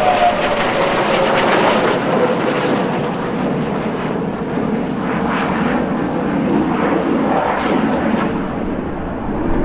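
Jet noise from Hongdu L-15E jet trainers flying a display pass: a loud, rushing engine sound that eases slightly as the aircraft move away. A high whine falling in pitch dies out at the very start.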